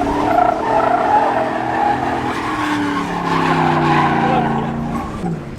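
Pickup truck doing a burnout: the engine revs hard while the rear tires squeal against the pavement. The engine pitch climbs a few seconds in and drops off near the end.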